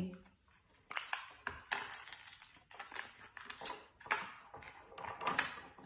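Irregular clicks, taps and clatter of small hard objects as a parrot handles a toy and puts it away.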